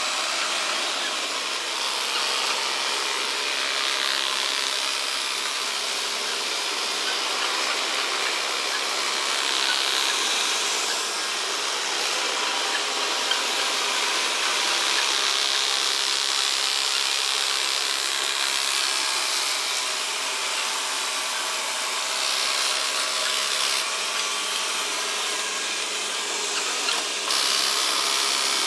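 Xiaomi Mijia robot vacuum cleaner running with a steady whirring hiss from its suction fan and brushes, swelling and easing slightly as it moves about, now and then rattling as it sucks up small debris.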